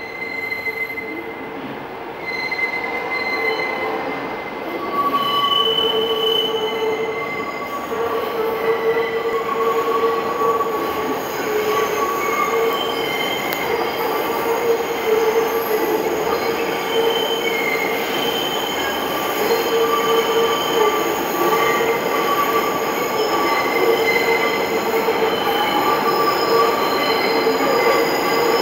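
R62A subway train arriving, its steel wheels squealing against the rails in several shrill, wavering tones over the rumble of the cars. The sound grows louder about five seconds in and stays loud as the train rolls in.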